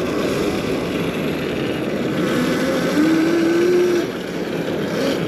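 Electric dirt bike's motor whining as it pulls away, its pitch rising about halfway through, over a steady rushing noise.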